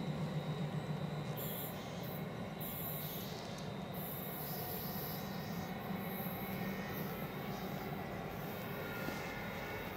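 Stadler FLIRT electric multiple unit running away along the line: a steady low rumble of wheels on rail, easing a little after the first second. Patches of high-pitched hiss come in between about one and four seconds in.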